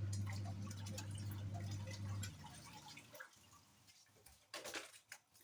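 Wash motor of a Hisense twin-tub washing machine humming as the pulsator churns water in the wash tub, then stopping about two seconds in; water sloshing and dripping goes on in the tub after the motor stops.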